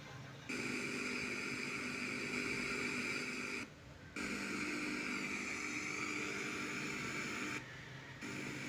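Sony Trinitron CRT TV's speaker giving out a steady, unclear droning tone in two stretches of about three seconds, broken by a short gap; this is the set's sound fault.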